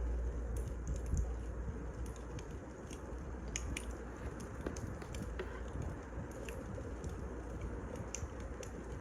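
Wood fire burning, with a steady hiss and irregular sharp crackles and pops from the burning logs. A low rumble underneath drops away about two seconds in.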